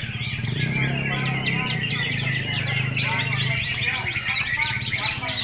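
Many greater green leafbirds (cucak hijau) singing at once in competition, a dense, continuous tangle of quick chirps, trills and warbles.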